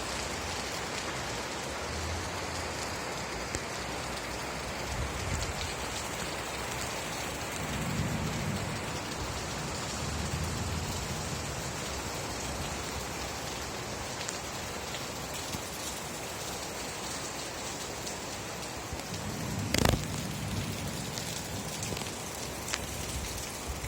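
Steady rain falling, with a few low rumbles and a single sharp crack near the end, the loudest moment.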